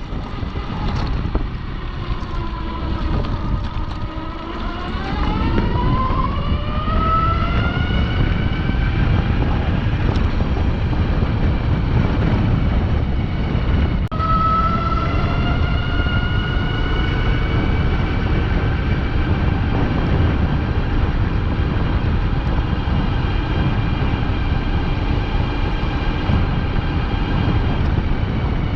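UBCO electric motorbike's motor whining while riding. The whine rises in pitch as the bike gathers speed over the first several seconds, then holds steady, over heavy wind rumble on the microphone. There is a sudden break about halfway through, after which the whine climbs a little again.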